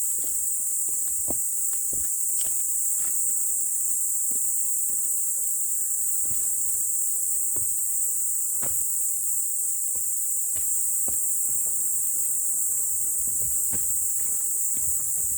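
Steady high-pitched insect chorus, such as crickets or cicadas, with scattered light taps and rustles like footsteps on the ground.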